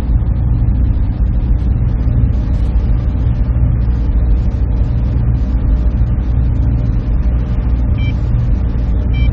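Server room machinery running with a steady low drone and hum. Two brief high-pitched tones sound near the end.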